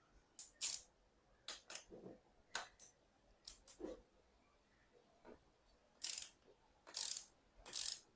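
Hand tools working on bicycle parts: a run of sharp metallic clicks and knocks, then three longer scraping, ratchet-like strokes about a second apart near the end.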